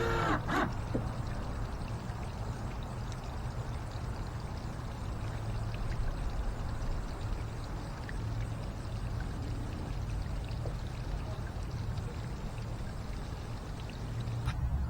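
Steady rushing and splashing of water, with a low rumble underneath.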